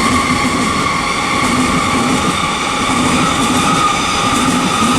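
Hitachi Class 800 (IET) train moving through the station, with a steady high whine over a rhythmic rumble from the wheels and running gear.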